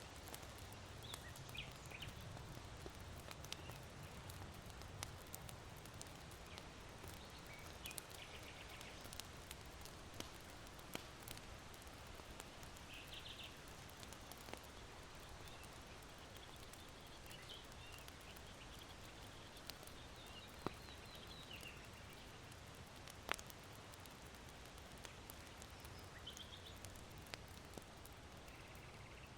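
Faint steady wind through bamboo with sparse, sharp crackles from an irori hearth's charcoal fire. Short, high calls of small birds come now and then, the longest about halfway through.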